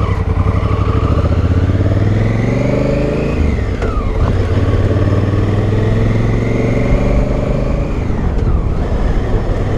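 2018 Honda Africa Twin's parallel-twin engine pulling hard on the road. The revs climb and drop at an upshift about three and a half seconds in, then climb again and drop at a second upshift near the end.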